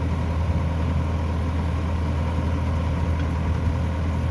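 Rice combine harvester's engine running steadily with a low, even drone.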